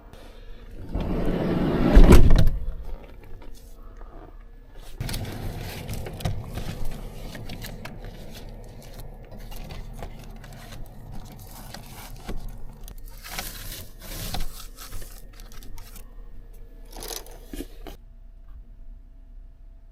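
Objects being handled, with scraping and rustling. A loud swell of noise ends in a sharp knock about two seconds in, followed by lighter rustling and a few brief scrapes.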